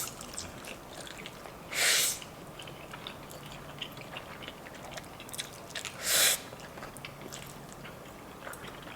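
Close-miked chewing of food, with many small wet clicks and smacks. Twice, about 2 s and 6 s in, a short loud breathy rush of air cuts in.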